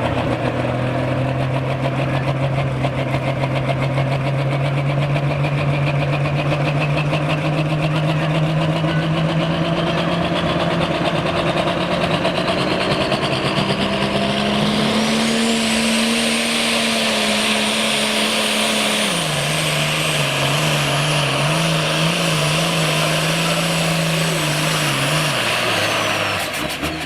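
Turbocharged diesel pulling tractor under full throttle down the track, its high turbo whistle climbing as the revs build. About 19 seconds in, the engine speed drops sharply and then wavers as the tires take a bite and bog the engine. The engine shuts off near the end.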